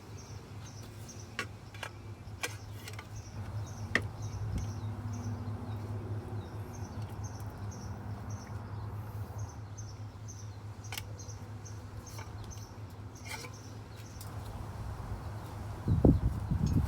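Scattered metallic clicks and knocks of an exhaust pipe being slid on and tightened on a Kawasaki ZX-6R, over a steady low hum, with a louder clatter of knocks near the end. A small bird chirps repeatedly in the background.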